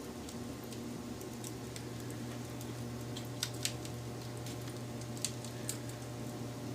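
Wood fire crackling, with a steady low rumble of burning and several sharp pops and snaps, the clearest a little over three seconds in and again past five seconds.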